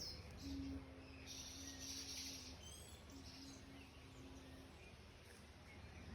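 A person humming two long, steady low notes, each about two seconds, with a short gap between them, over faint bird chirps.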